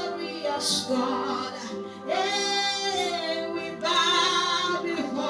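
Slow worship song: a woman singing long held notes over a steady sustained musical backing.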